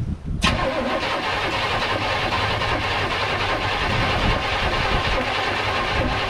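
Starter motor cranking a 1952 Mercury's supercharged engine for about six seconds without it catching. The engine has sat for a year and has not yet been primed.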